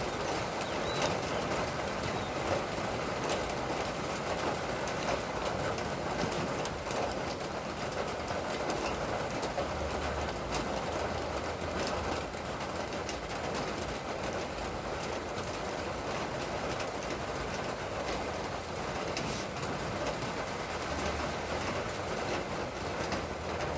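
Steady rain falling, a continuous hiss with many small drop ticks and taps.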